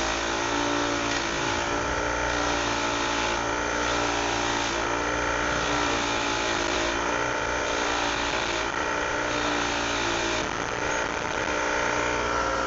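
A motor running steadily at a constant pitch, a sustained mechanical drone with no change in speed.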